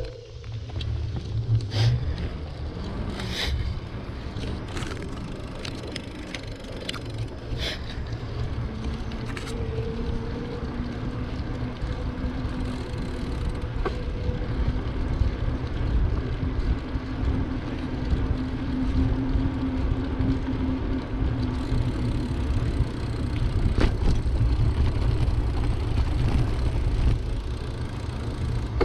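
Wind buffeting the microphone of a camera riding along on a bicycle, a steady low rumble, with a few sharp clicks and rattles from the bike in the first several seconds.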